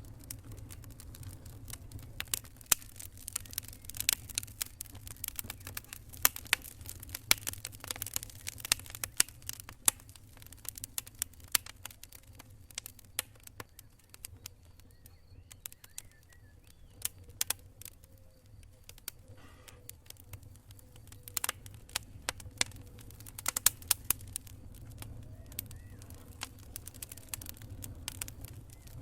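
Wood campfire crackling, with irregular sharp pops and snaps, some much louder than others, over a steady low rumble.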